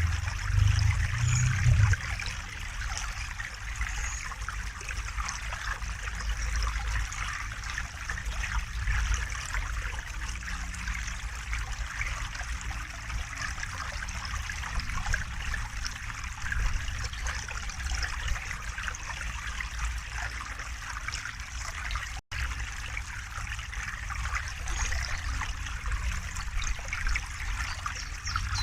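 River water flowing and trickling steadily, an even rushing hiss with a low rumble beneath. The sound cuts out for a split second about two-thirds of the way through, then carries on unchanged.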